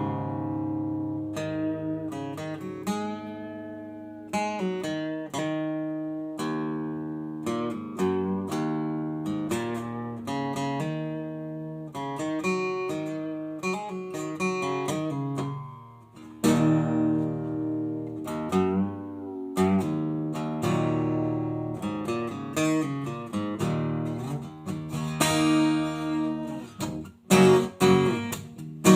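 Acoustic guitar played solo, chords and single notes plucked and strummed, some ringing and some cut short.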